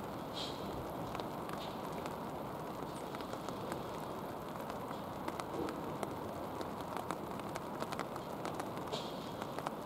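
Steady rain falling, with many sharp ticks of drops landing scattered through it.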